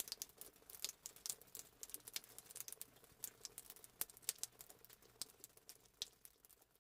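Faint, irregular patter of raindrops: scattered sharp taps, several a second, over a light hiss.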